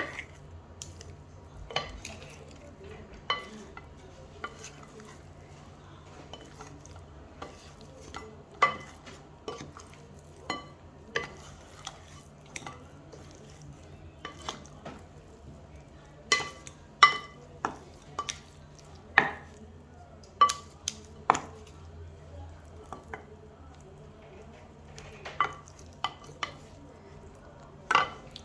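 A utensil clinking and scraping against a bowl while mixing spice-coated chicken pieces: short ringing clinks at irregular intervals, most frequent past the middle, over a steady low hum.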